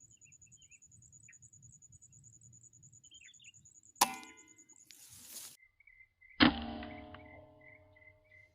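Air rifle shots at small birds: a sharp crack about four seconds in, followed by a brief hiss, then a second, louder crack about two and a half seconds later with a ringing tail that fades over a second or so. Faint bird chirps and a faint, high, evenly pulsing tone sit underneath.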